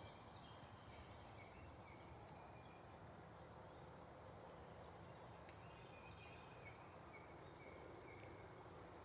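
Faint, scattered short bird chirps over a quiet, steady background hiss.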